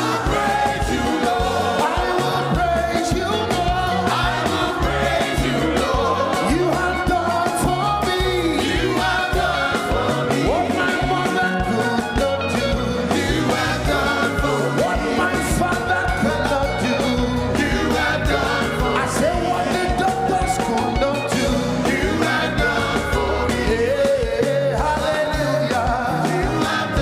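Live gospel praise music from a band, with singing over a steady beat.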